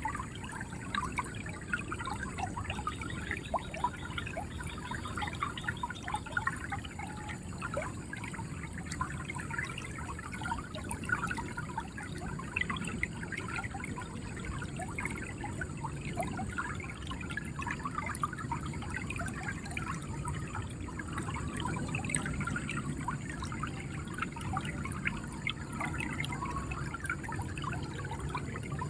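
River water flowing and gurgling steadily, with many small trickling splashes.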